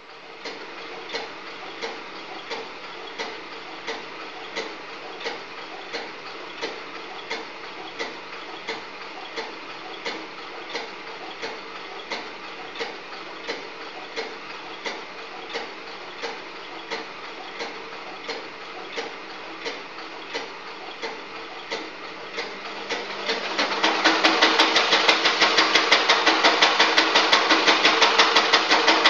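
Washing machine running with a regular clicking knock about one and a half times a second. About 23 seconds in it becomes much louder, with a fast, heavy knocking rattle.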